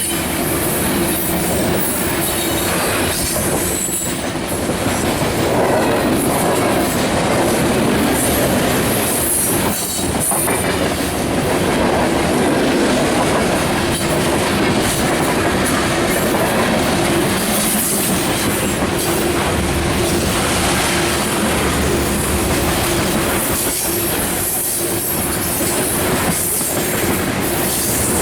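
CSX freight train cars rolling past on steel wheels, a steady clatter over the rails with high wheel squeal.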